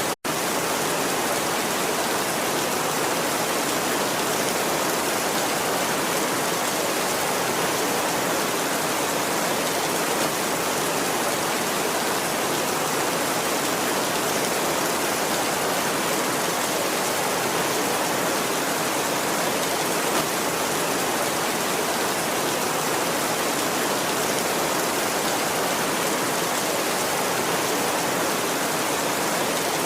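Steady heavy rain, a dense even hiss with no thunder. It cuts out to silence for an instant just after the start.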